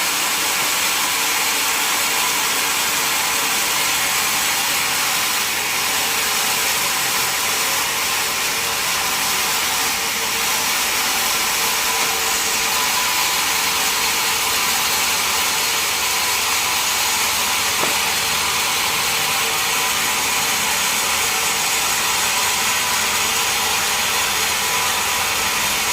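Sawmill saw running steadily as it cuts wood, a hissing machine noise with a faint whine.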